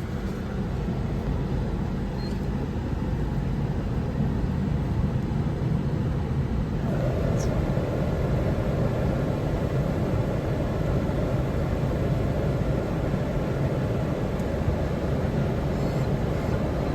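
Steady low rumble of a car wash running, with a further layer of washing noise that comes in about seven seconds in.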